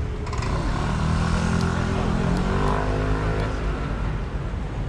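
A motor vehicle driving past, its engine note swelling and then fading over about three seconds.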